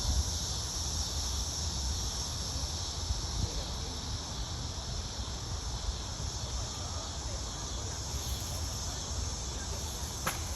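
Steady high-pitched drone of insects over a low rumble, with one sharp click near the end.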